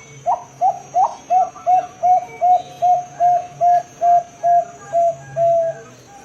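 Bangkok-line zebra dove (perkutut) singing: a long run of about fifteen short, even coos at roughly three a second, opening on a slightly higher note, the last few coos drawn out a little longer.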